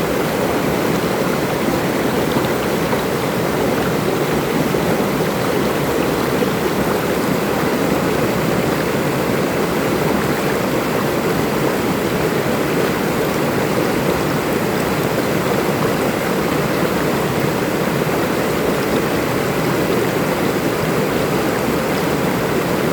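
Flowing water babbling steadily, with no break.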